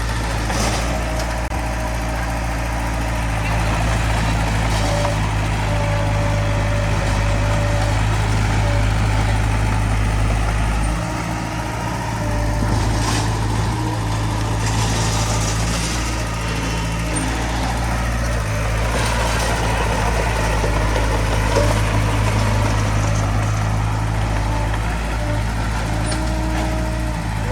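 Diesel engine of a small crawler bulldozer (Komatsu D20P) running steadily while it works, with a brief dip about eleven seconds in.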